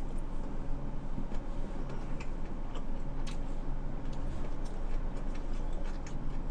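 Close-miked chewing of sushi: soft, scattered mouth clicks about once a second over a steady low hum.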